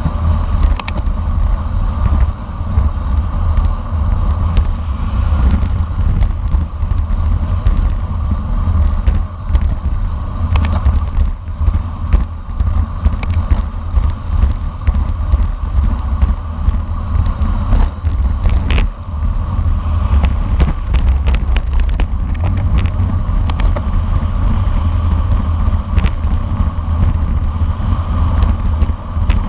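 Wind buffeting the microphone of a camera riding on a racing bicycle at speed, over a steady rumble of tyres on the road, with scattered sharp clicks.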